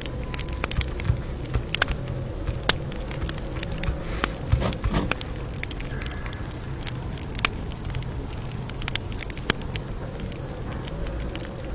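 Campfire crackling: irregular sharp pops and snaps over a steady low rumble of burning, with a denser run of pops a little before five seconds in.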